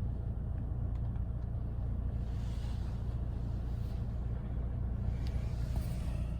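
Volvo XC40 T5's 2.0-litre four-cylinder petrol engine running at a steady low idle, a low rumble with no revving, waiting before the launch.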